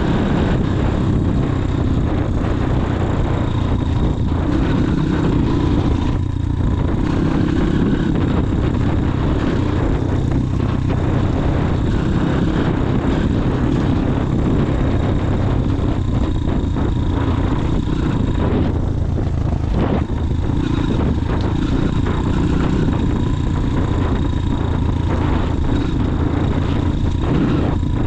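Motorcycle engine running steadily while riding along, at an even pace with no clear revving.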